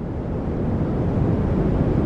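Steady rushing noise track, heaviest in the low end like brown noise, still swelling in level as it fades in before settling.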